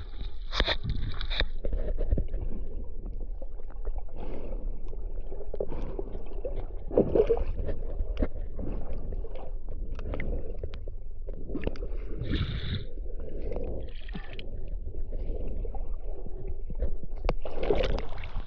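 Sea water sloshing and gurgling around a camera at or just under the surface while snorkelling, with scattered small knocks and clicks.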